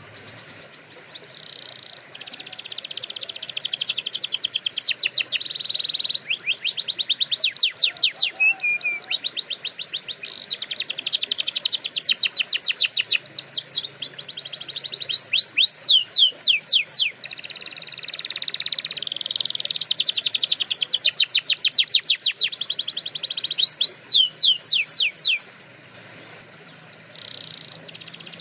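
Canary singing a long song of fast trills and rolls: rapid runs of repeated downward-sweeping notes alternating with buzzy rattles. It starts about two seconds in and stops about 25 seconds in.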